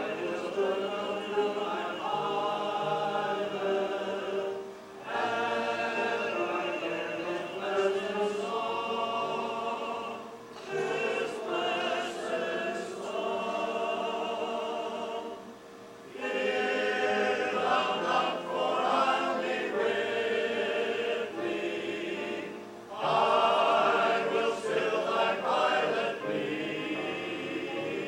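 A choir singing a hymn in long sustained phrases, with short pauses between phrases about every five or six seconds.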